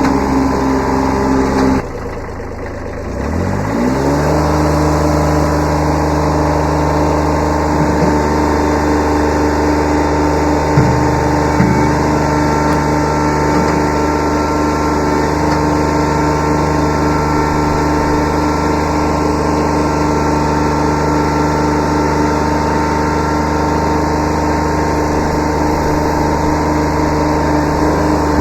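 Kubota B7100 tractor's three-cylinder diesel engine drops briefly to a lower speed, then revs back up a few seconds in and holds a steady high throttle, with a few light knocks along the way. It starts to wind down right at the end.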